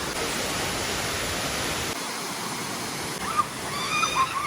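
Waterfall rushing steadily, its low rumble thinning about halfway through, with a high-pitched voice coming in near the end.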